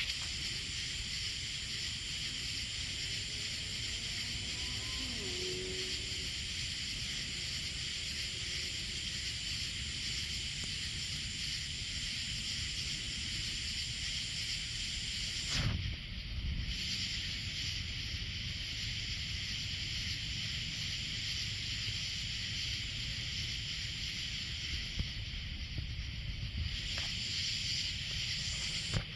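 Steady evening insect chorus, a continuous high-pitched hiss-like buzzing, with a single brief knock about 16 seconds in.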